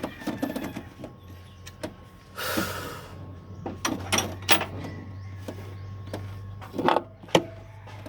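Hand tools and engine parts being handled during engine reassembly: scattered sharp clicks and knocks, with a short rasping noise about two and a half seconds in, over a steady low hum.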